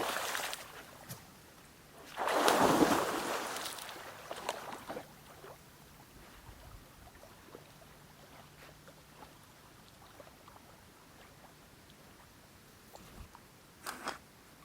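Lake water splashing: a short splash at the start and a bigger one about two seconds in, then faint lapping with a few small ticks near the end.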